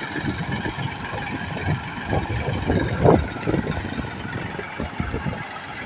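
Tractor and the bajra (pearl millet) threshing machine it drives, running steadily, with a brief louder surge about three seconds in.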